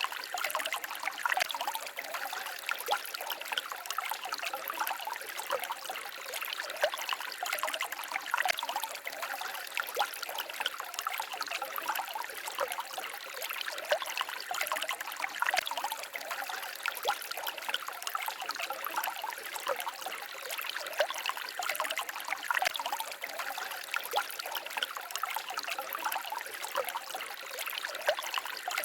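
A small forest stream babbling and trickling steadily, with many fine splashes and no pause.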